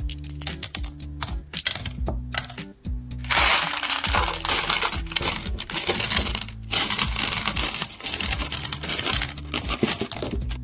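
Tumbled howlite stones clinking and clattering against each other and the ceramic bowl as they are set down and spread out, with a denser run of rattling from about three to six and a half seconds in. Background music plays underneath.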